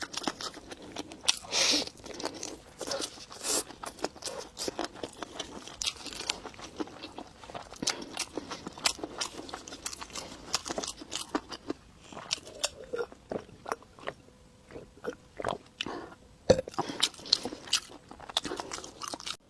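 Close-miked eating sounds: a person chewing and crunching food, with many irregular crisp clicks and crackles and one sharper snap about three-quarters of the way through.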